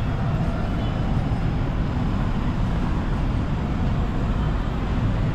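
Steady low rumble of a running vehicle, even throughout without any sudden events.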